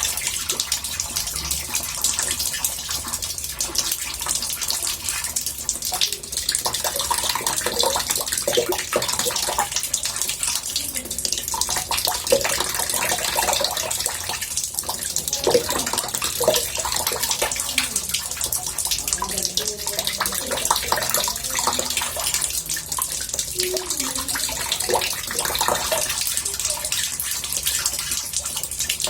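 Water running into a bathtub, a steady murmuring rush with small gurgles and bubbling blips throughout.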